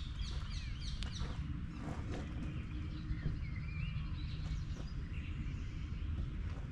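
Small birds chirping in quick, short runs of calls, busiest in the first second or so, over a steady low rumble.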